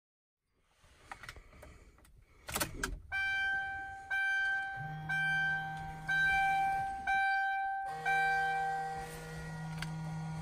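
Keys jangling, then the 2010 Mercury Grand Marquis's warning chime dinging about once a second, with a low steady hum under most of the chimes.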